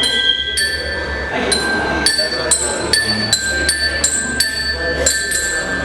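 Tuned tubes of a keyboard-style percussion instrument struck one at a time with a mallet, playing a simple melody of about a dozen bright, ringing notes, roughly two a second.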